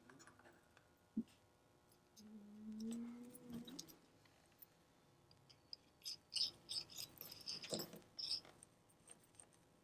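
Faint, sharp metallic clicks and ticks of small watchmaker's tools working on a wristwatch movement, as the winding weight is fitted. There is a single click about a second in and a cluster of quick ticks in the second half, with a brief low tone between them.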